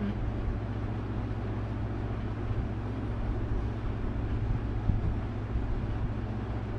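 A steady low rumbling hum, like a running engine or machine, with a few faint knocks about five seconds in.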